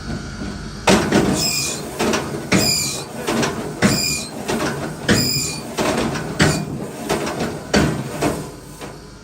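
A run of hard knocks of firewood, about one a second, several followed by a short high squeal.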